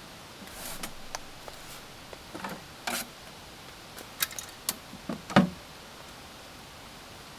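Scattered light clicks and knocks of gear being handled, with a brief rustle near the start and the loudest knock about five seconds in, over a steady faint hiss.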